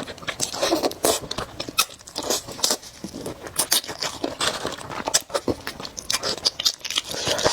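Close-miked eating sounds of spicy noodles with eggs: irregular wet smacks, slurps and chewing clicks.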